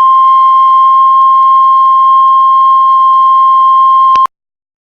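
Heart monitor flatline alarm: one continuous, steady beep that cuts off abruptly about four seconds in. The unbroken tone is the monitor's sign that the heart has stopped.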